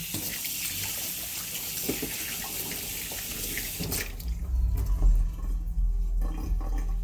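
Running water hissing steadily for about four seconds, then giving way to a deep low rumble.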